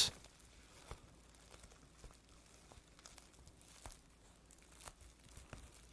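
Faint, scattered small clicks, about one a second, with light rustling in a quiet small room.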